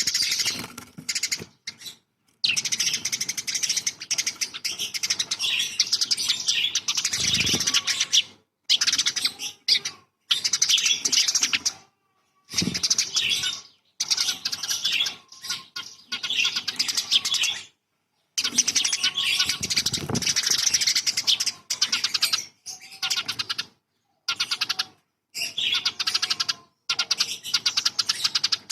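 Songbird song of the kind used as masteran tutoring audio: rapid, dense chattering and twittering phrases, each one to several seconds long, broken by abrupt silent gaps where the recording is cut.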